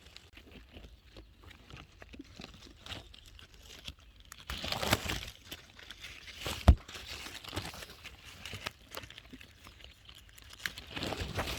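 Rustling and crunching of strawberry leaves and straw as the plants are handled during picking, with one sharp knock a little past halfway.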